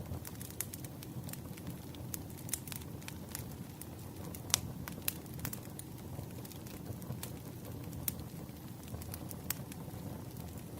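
Wood fire burning: logs crackling with irregular sharp pops over a low, steady rumble, one pop louder than the rest about four and a half seconds in.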